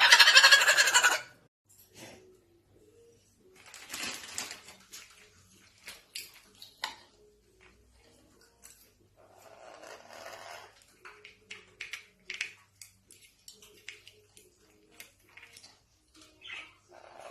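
Pet parrot screeching loudly for about a second at the start, then softer squawks and calls around four and ten seconds in, with scattered short sharp sounds in between.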